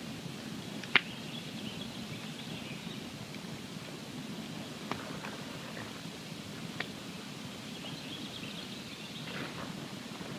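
Wood campfire burning with a steady low rush and scattered crackles. One sharp pop comes about a second in, and smaller snaps follow near five and seven seconds in.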